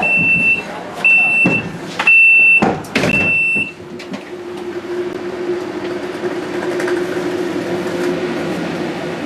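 Passenger train door-closing warning: four high beeps, about one a second, each about half a second long, with a couple of knocks among them. The beeps stop about four seconds in, and a steady low hum follows.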